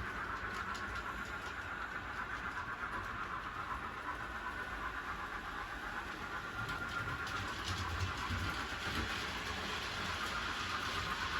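Model train running on the layout track: a steady motor whine with faint ticking of the wheels over the rails, growing a little louder about two-thirds of the way through as it comes closer.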